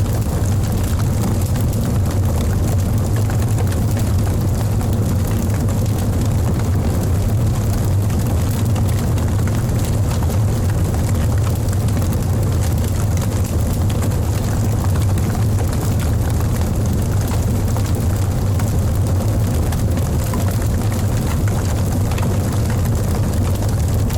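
Wood logs burning in a fireplace: a steady low rumble of the fire with light crackles scattered throughout.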